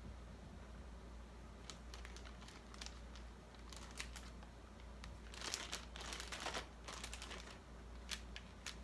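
Paper bag crinkling as it is handled, loudest for about a second and a half near the middle, with scattered small clicks and taps of craft work.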